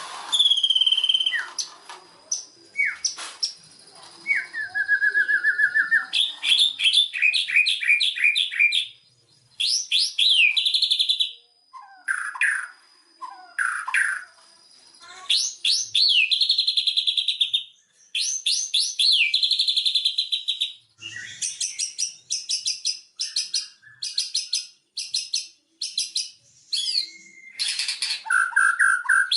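White-rumped shama (murai batu) singing a long, varied song: clear whistles, rapid runs of repeated notes and trills, in phrases broken by short pauses. A thin steady high tone sounds under the first half.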